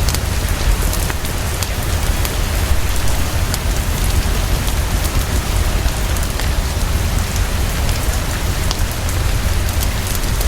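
Heavy, fast, steady rain pouring, with a deep low rumble underneath and scattered sharp clicks from a crackling fireplace.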